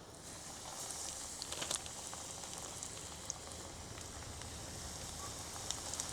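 Breaded catfish fillets frying in hot grease: a steady sizzle that comes up just after the start, with small pops and crackles scattered through it.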